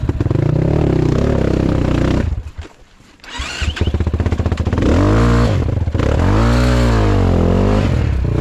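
Dirt bike engine running at high revs, dying away about two seconds in, then coming back and revving up and down several times: a bike that keeps stalling.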